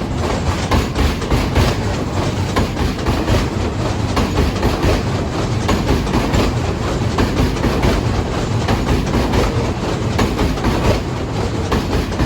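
New York City subway train running through the station, its wheels clattering rapidly and evenly over the rail joints along with the steady rumble of the cars.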